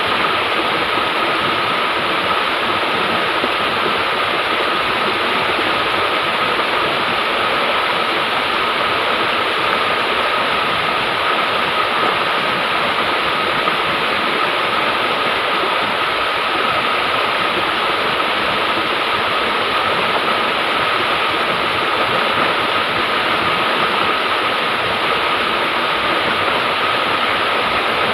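River water rushing steadily, with a faint steady high tone running under it.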